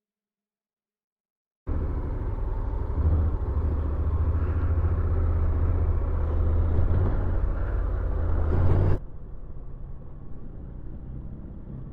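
Honda NC750X's parallel-twin engine running under way, with wind and road noise, as heard riding on the bike. It starts suddenly after a silent gap, and about nine seconds in drops abruptly to a quieter steady rumble.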